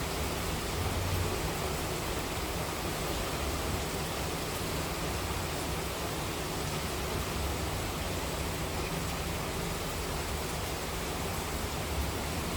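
Steady, even hiss of heavy monsoon rain, with a low rumble that swells and fades underneath every few seconds.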